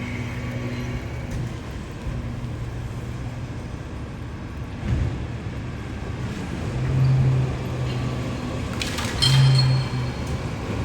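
Night street traffic: a motor vehicle's engine hum runs steadily and swells louder twice in the second half, with a brief high-pitched squeal about nine seconds in.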